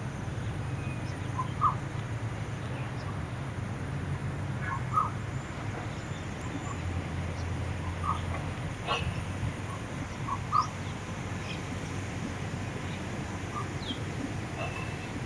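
Birds chirping in scattered short calls, a few higher and thinner ones near the end, over a steady low rumble.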